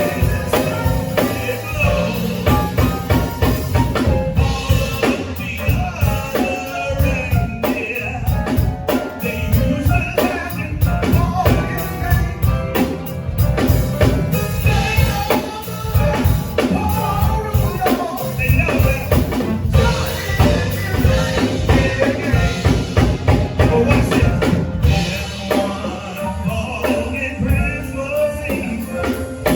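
Live band playing gospel-style music: a drum kit keeping a steady beat over bass and keyboard.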